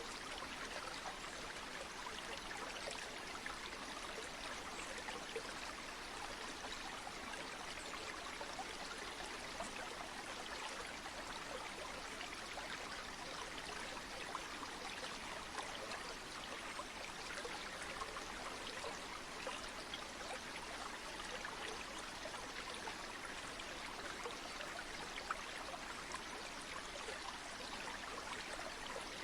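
River water flowing steadily, a constant rushing hiss flecked with small splashes and trickles.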